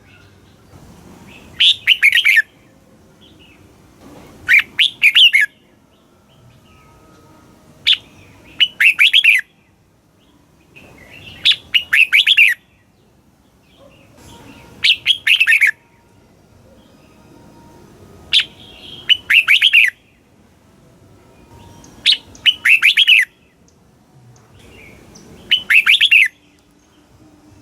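Red-whiskered bulbul singing short, quick, warbling phrases of about a second each, one every three to four seconds, with a faint steady hiss between them.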